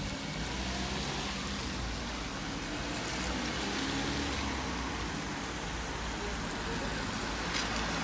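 Street noise on a wet, snow-covered road: a steady hiss with a low rumble underneath, like vehicle tyres on slush, swelling slightly around the middle.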